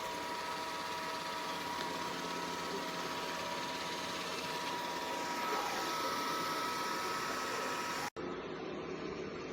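Robot vacuum running: a steady whirring hiss with a high, steady whine through it. About eight seconds in it cuts off abruptly and comes back duller.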